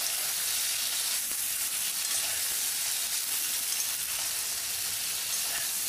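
Potato and cauliflower pieces sizzling in hot oil in a wok, a steady high hiss, as they are stirred.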